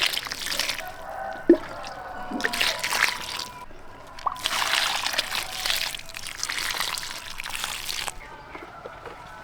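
Water splashing and sloshing in several bursts, with a short pause between each; the longest burst runs for about three and a half seconds.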